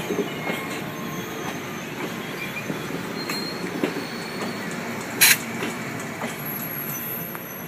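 Amtrak passenger train cars rolling past with a steady rumble and wheel noise on the rails, with faint brief wheel squeals. About five seconds in comes one short, sharp, loud noise.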